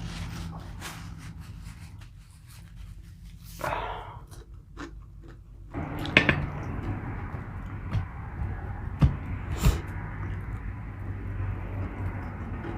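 Close-miked chewing and mouth sounds of a man eating, with scattered sharp clicks, over a steady low hum.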